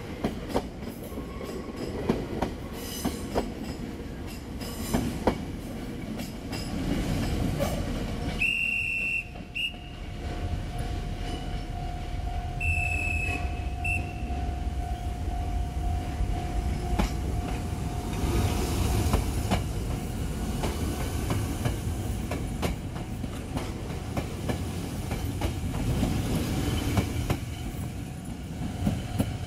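Kobe Electric Railway electric trains pulling out of a station one after another, wheels clicking over rail joints and points under the steady running noise of the cars. A few brief high-pitched tones come about a third of the way in, and a steady hum sets in soon after and holds.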